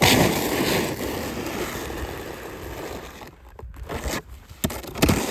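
A loud scraping rush that starts suddenly and fades over about three seconds, followed by a few sharp crunching clicks.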